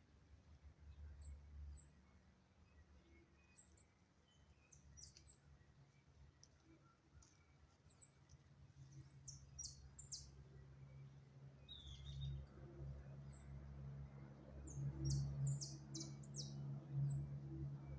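Small birds chirping: short, high chirps scattered throughout, more of them in the second half, over a low rumble.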